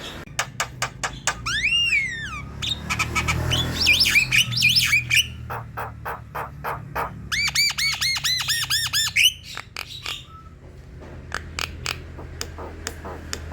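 Javan myna singing in full voice: a rapid run of dry clicks, a whistle that rises and falls about two seconds in, harsh chattering, then a fast string of about a dozen arched whistled notes past the middle.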